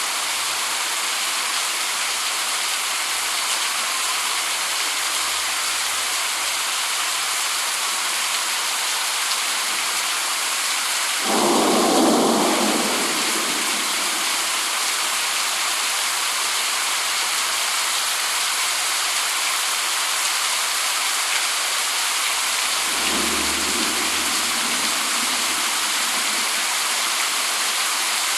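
Steady rain falling, an even hiss. A roll of thunder about eleven seconds in is the loudest moment, and a fainter rumble follows about twelve seconds later.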